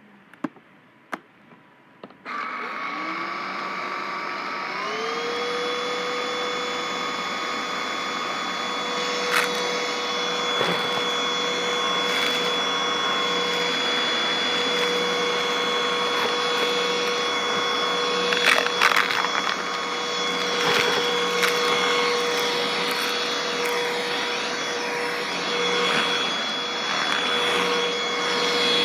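Black & Decker vacuum cleaner switched on about two seconds in, its motor winding up to a steady high whine, then crackling and crunching as it sucks up debris.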